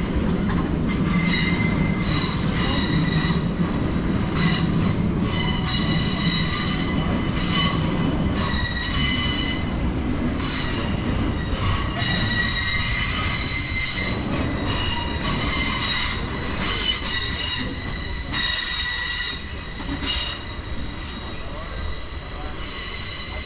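Rail wheels squealing as a train runs past: several high, steady squeal tones that shift every second or two over a low rumble, easing off in the last few seconds.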